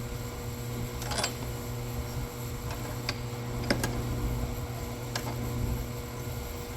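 A few scattered light clicks and knocks of a battery holder bracket being handled and set in place in a car's engine bay, over a steady low hum.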